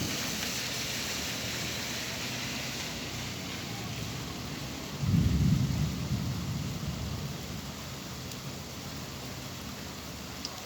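Steady rainfall, with a low roll of thunder that swells suddenly about five seconds in and fades over the next couple of seconds.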